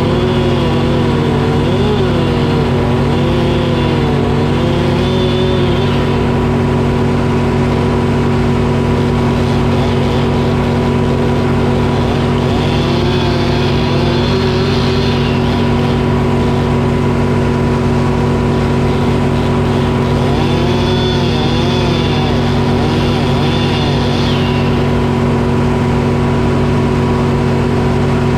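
Detroit Diesel engine running steadily to power a Frick sawmill while it cuts oak. Three times the saw works through the log, adding a wavering whine and a hiss for a few seconds each: at the start, around the middle, and again past two-thirds of the way.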